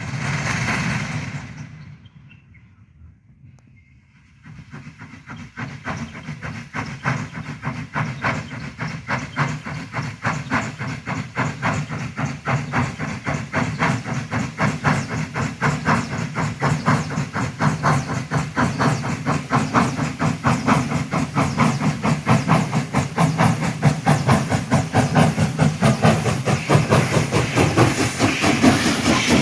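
Baldwin Mallet steam locomotive working hard uphill: after a short rush of steam at the start, its exhaust chuffs come in about four seconds in as a fast, even beat over a steady low rumble, growing louder toward the end.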